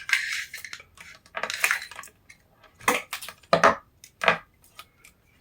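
Hands handling and crinkling material, likely packaging, in several rustling bursts, followed by a few short sharp knocks about three and four seconds in.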